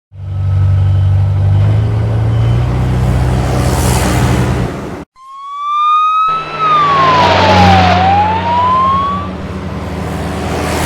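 A heavy vehicle engine running steadily for about five seconds, then cutting off. After a moment the engine sound returns, joined by a siren whose single tone rises, dips and rises again.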